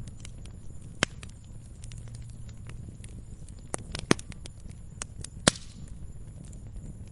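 Wood fire in a fireplace crackling over a steady low rumble of flames, with several sharp pops; the loudest comes about three quarters of the way through.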